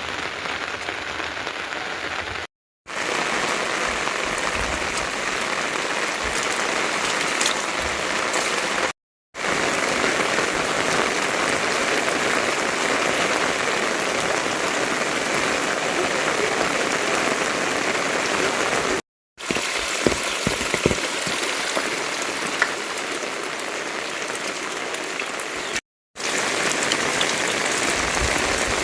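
Steady rain falling, a dense even hiss, with a few sharper drop hits about twenty seconds in; the sound cuts out briefly four times.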